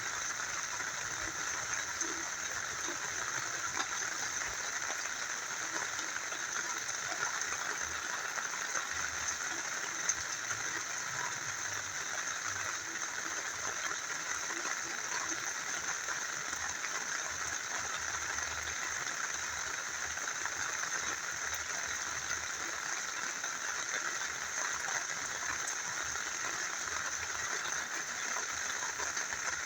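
A small river flowing steadily, with rain falling and a few light drop ticks.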